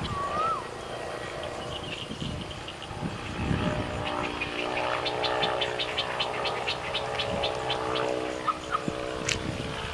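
A distant engine droning steadily, which grows stronger about four seconds in and fades near the end. Over the drone comes a short whistled call near the start, then a rapid run of high ticks, about four a second, and a single sharp click near the end.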